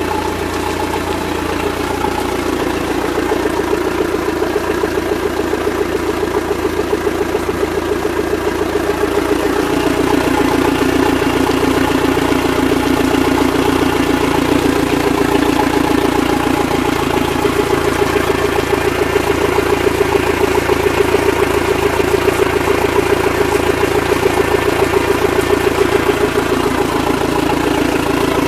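Engine of a Nissan Wing Fisher 26 fishing boat idling steadily with an even pulsing beat; its tone shifts slightly and it gets a little louder about ten seconds in.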